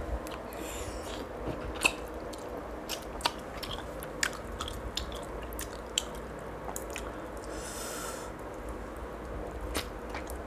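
Close-up chewing and lip-smacking of someone eating braised pork hock with their hands, with scattered sharp wet smacks. A short hissing breath is drawn in about eight seconds in.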